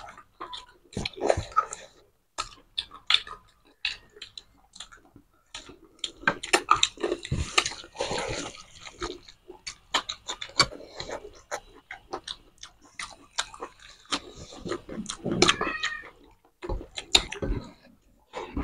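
Close-up eating sounds of mutton curry and rice eaten by hand: wet chewing and lip smacking, with many short sharp clicks.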